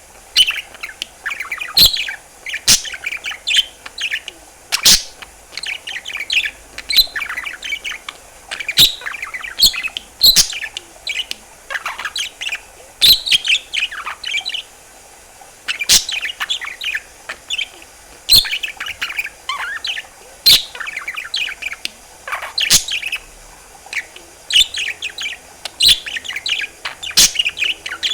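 Budgerigar warbling and chattering: rapid chirps and trills with sharp clicks every second or few.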